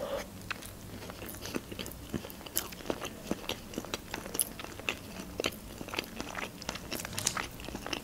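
A person chewing a mouthful of hot dog in a bun with lettuce, close to the microphone: many short, irregular clicks and crunches.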